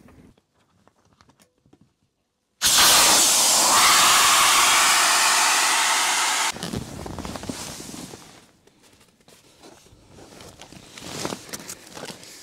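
A loud, steady rushing hiss of blown air starts abruptly after a moment of dead silence and cuts off about four seconds later. Fainter rustling and soft clicks follow.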